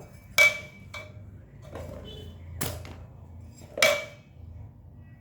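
Three sharp chops of a metal blade into a young coconut, each with a brief metallic ring, with a few softer knocks between them.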